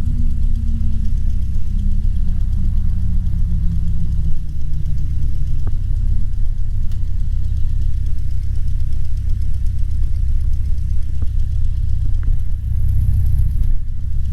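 Cessna 150's four-cylinder engine running at low power as the plane rolls out after landing, a steady low drone whose pitch sags slightly over the first few seconds.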